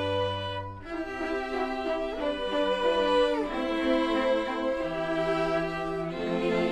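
String ensemble of violins and cellos playing held chords that change every second or two.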